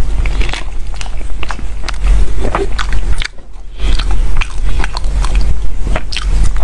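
Close-miked chewing and biting of soft cream-layered sponge cake: a run of sharp mouth clicks and smacks, with a short lull a little past three seconds before the eating sounds resume.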